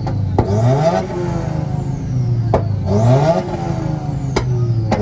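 Subaru's engine revved against a two-step launch limiter: the revs climb quickly three times, each time held on the limiter, with three sharp pops about two seconds apart.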